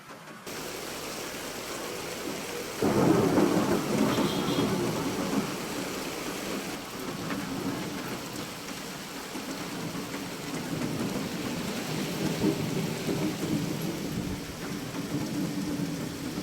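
Steady rain falling, with a long rolling rumble of thunder that breaks in suddenly about three seconds in and slowly dies away under the rain.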